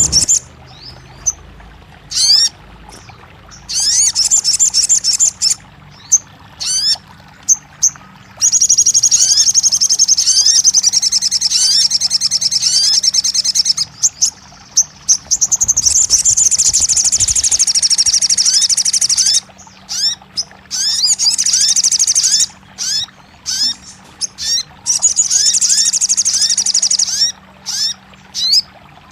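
Crimson sunbird (sogon) singing high, very rapid trills in phrases of several seconds, broken by short gaps and quick upward-sweeping chirps.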